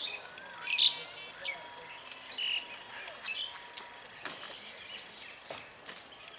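Small birds chirping and twittering in quick, short calls, one after another, over faint background noise.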